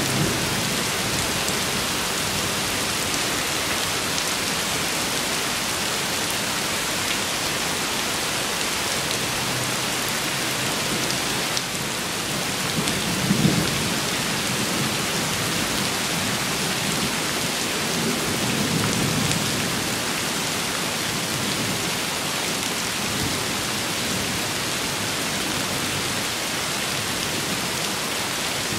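Steady, heavy rain falling in an even hiss. Low rumbles of thunder swell up about halfway through and again a few seconds later.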